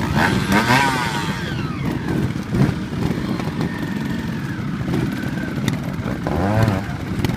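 Trial motorcycle engine blipped in short, sharp revs, rising and falling back about half a second in and again about six seconds in, running low between them. A few sharp knocks are heard.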